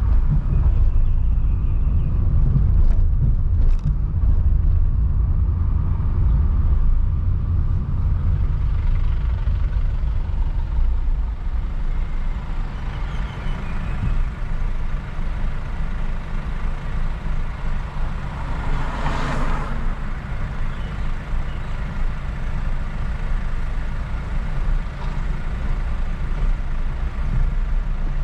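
Road noise of a car driving through city streets: a steady low rumble from engine and tyres. About two-thirds of the way through, a brief louder rush swells and fades.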